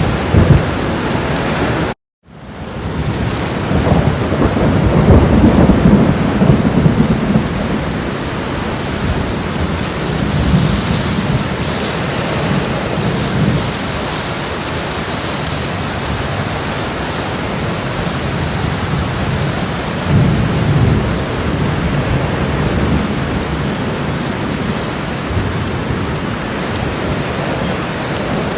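Thunderstorm sound effects: steady heavy rain with low, rolling thunder rumbles, the biggest about four to seven seconds in and another around twenty seconds in. The sound cuts out completely for an instant about two seconds in, then fades back up.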